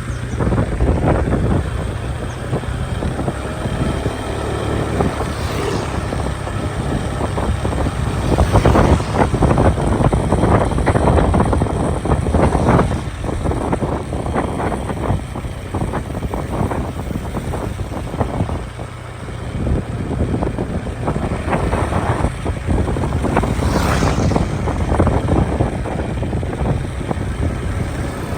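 Motorcycle running steadily on the move, with wind buffeting the microphone in irregular gusts.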